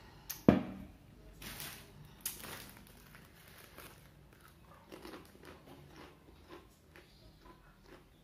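A person biting into and chewing crunchy kerupuk crackers: two loud crunchy bites in the first few seconds, then softer crunching chews. A single sharp knock comes about half a second in.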